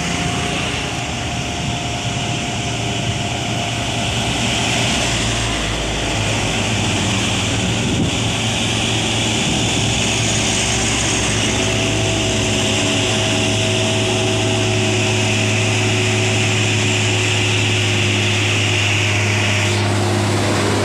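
Heavy truck's diesel engine labouring as it climbs a steep grade: a steady, low engine drone with a high hiss above it that cuts off suddenly near the end.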